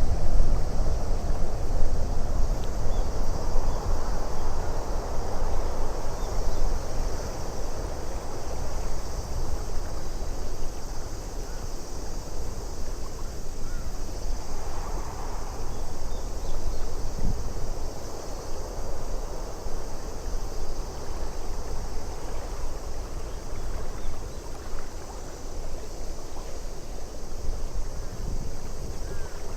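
Steady wind with lake water lapping, a continuous nature ambience with no clear single events.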